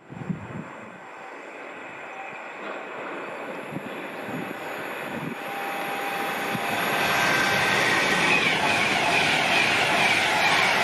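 A passing train on the main line, its rushing rail and wheel noise growing louder over about the first seven seconds, then holding steady and loud as it passes close by.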